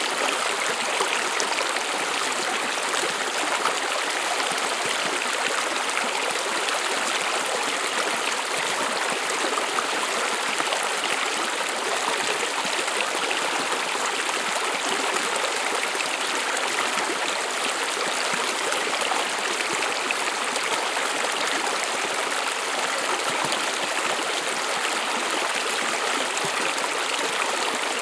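Brook water running and babbling over stones, steady and continuous.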